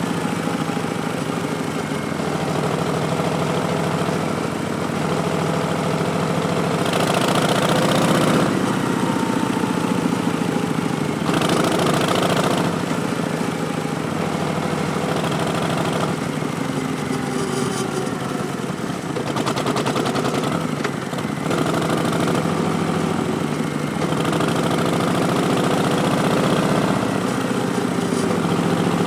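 Harley-Davidson Street Bob's Milwaukee-Eight V-twin running steadily through V&H Twin Slash slip-on exhausts, its pitch rising and falling gently. There are brief rushes of wider hissing noise about seven and eleven seconds in.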